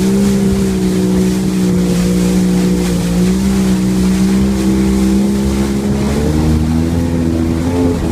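Jet ski engine running steadily at speed, a steady drone over a hiss of water and wind; late on its pitch climbs slightly, then drops back near the end.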